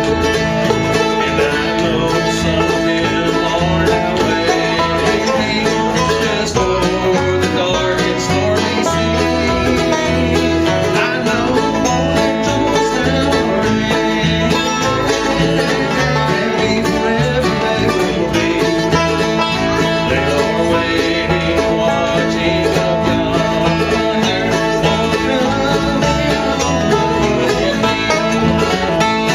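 Bluegrass band playing live: five-string banjo and guitar picking over a steady upright bass line.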